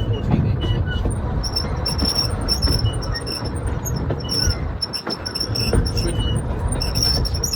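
Train running on the rails: a steady rumble with many short, high-pitched squeals of wheels on the track.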